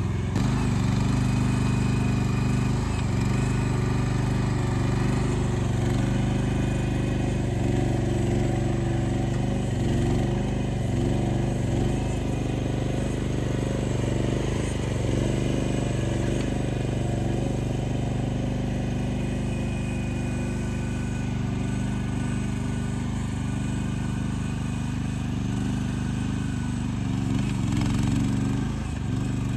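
Mini excavator engine running at a steady pitch.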